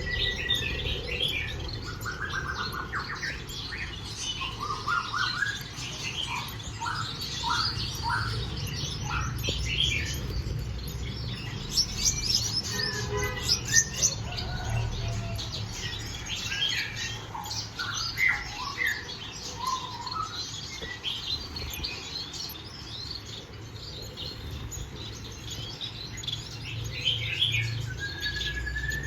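Gouldian finches chirping and calling, a stream of short chirps with some brief rising notes, over a low steady background hum.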